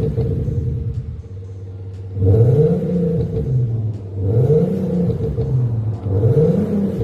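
BMW 520d with an Xhaust active sound system, its speaker-made V8-style exhaust note idling low, then revved three times about two seconds apart, each rev rising in pitch and falling back to idle. A steady hum runs underneath.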